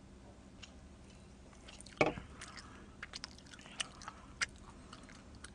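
Close-miked mouth sounds of eating and drinking: soft, wet clicks of chewing, with one louder short sound about two seconds in as she finishes a drink of cola.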